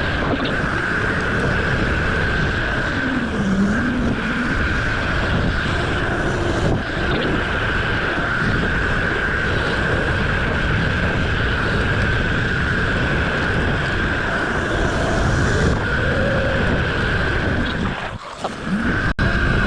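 Mini bike engine running at a steady speed while riding, with a steady high whine and heavy wind on the microphone; the sound drops off briefly near the end before picking back up.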